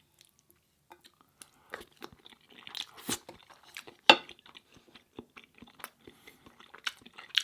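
Close-miked chewing of food with wet mouth clicks and crackles, starting about a second in, at an uneven pace, with the loudest clicks around the middle.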